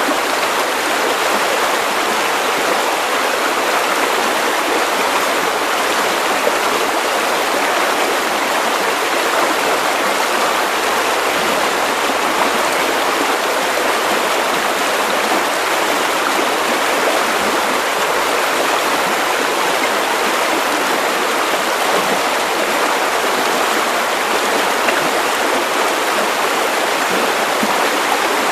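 Steady white noise for baby sleep: an even, unchanging hiss with little bass.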